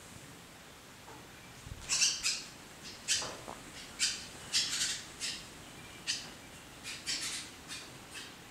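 Birds giving a run of short, harsh, scratchy calls, about a dozen at irregular intervals, starting about two seconds in; one call slides downward in pitch.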